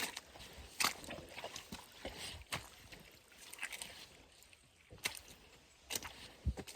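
Footsteps crunching on a forest trail, an irregular series of sharp steps.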